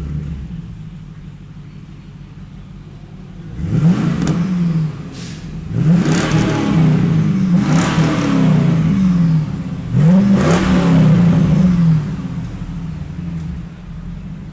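2002 Pontiac Trans Am V8 through a Magnaflow cat-back exhaust, idling, then revved several times in quick blips, each note rising and falling back, before settling to idle again.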